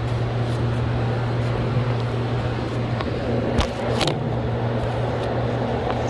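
A steady low machine hum, with a few sharp clicks about three and a half and four seconds in.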